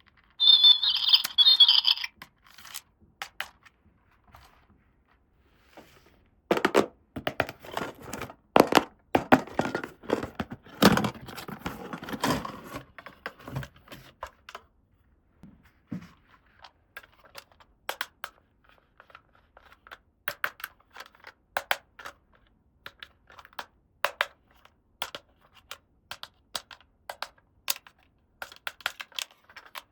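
Unboxing of plastic toys and their packaging: a short burst of ripping near the start, a long stretch of crinkling and tearing a few seconds later, then scattered light clicks and taps as small plastic pieces are handled and set down.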